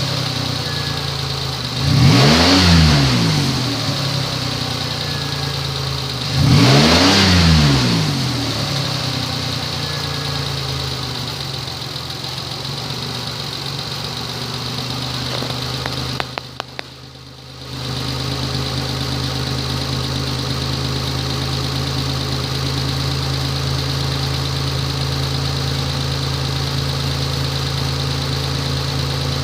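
2004 Mitsubishi Endeavor's 3.8-litre V6 idling, revved briefly twice near the start, each rev rising and falling back. Past the middle the sound drops away for about a second with a few clicks, then the engine idles steadily again.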